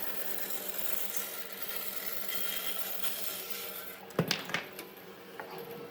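Steady scraping hiss of wood being worked by hand, then a quick cluster of sharp knocks about four seconds in and one more near the end.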